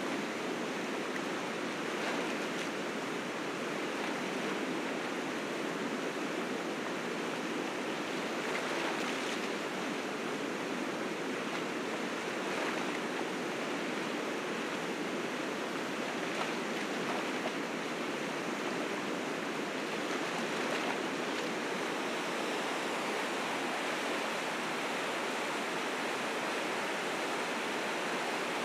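River rapids rushing steadily, a continuous full roar of fast water swollen with spring snowmelt.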